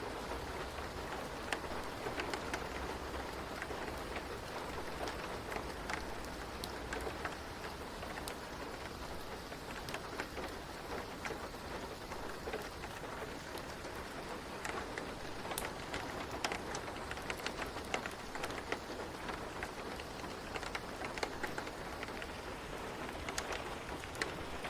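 Steady rain falling, with many individual drops pattering sharply on a surface over a continuous hiss.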